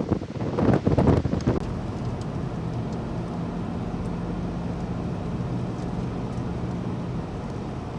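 Gusty wind buffets the microphone for about the first second and a half. After that comes the steady, low running noise of a vehicle, with a faint engine hum.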